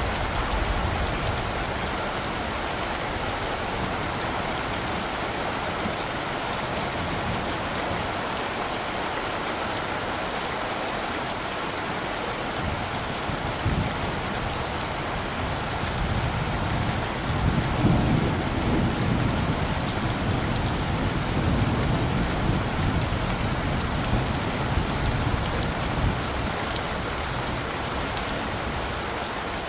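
Steady rain pattering on leaves and surfaces, with a low roll of distant thunder rising about halfway through, peaking a few seconds later and dying away near the end.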